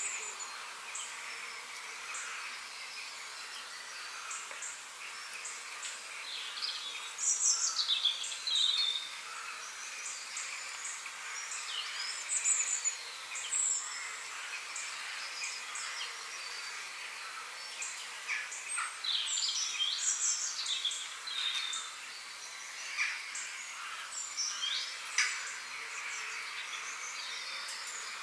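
Several songbirds chirping and trilling in short, varied phrases over a steady outdoor hiss, with a few louder bursts of song scattered through.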